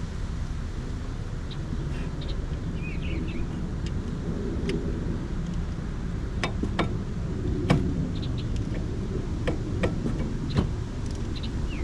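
Scattered sharp metallic clicks and taps from hand tools and parts being handled at a car's front brake, about half a dozen of them, mostly in the second half, over a steady low outdoor rumble.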